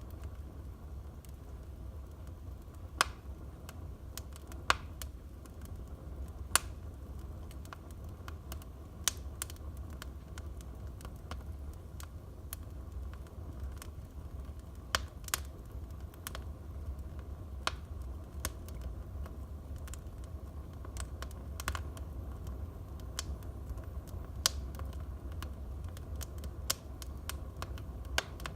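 Wood fire burning in a fireplace: irregular sharp crackles and pops from the burning logs over a steady low rumble, with a few louder pops in the first several seconds.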